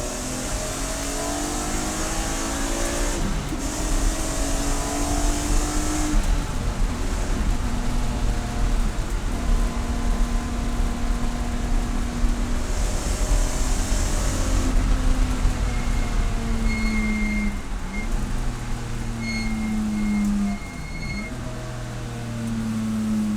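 Race car engine pulling hard with two upshifts in the first six seconds, then held at steady revs. Later it runs through a series of downshifts with short throttle blips, and a thin high squeal rides over it near the end.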